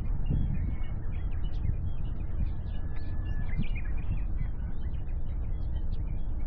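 Small birds chirping in many quick, short notes over a steady low rumble.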